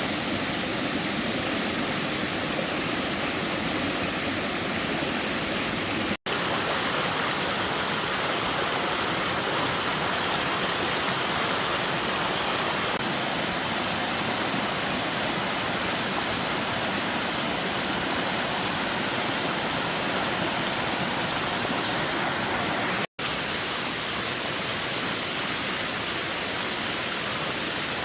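Steady rushing water, an even hiss with no voices, cutting out for an instant twice, about 6 and 23 seconds in.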